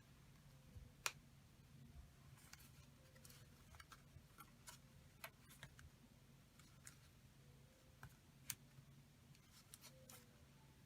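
Faint, scattered small clicks and taps of paper and crafting tools being handled, with two sharper clicks about a second in and again near the end, over a low steady hum.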